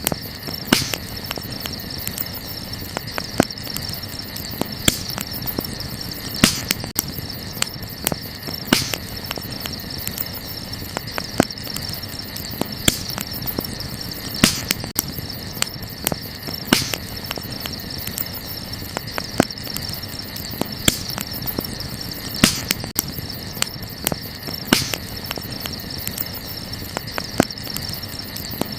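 Wood fire crackling, with sharp pops every second or two, over a steady high chirring of crickets.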